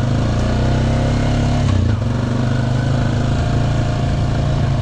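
Honda Rancher ATV's single-cylinder four-stroke engine running steadily at a low pitch, with a short rise and dip in revs about two seconds in.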